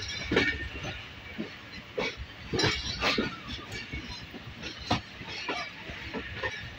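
Passenger train running on the rails, heard from inside a coach at an open window: a steady rumble with several sharp, irregularly spaced knocks of the wheels over rail joints.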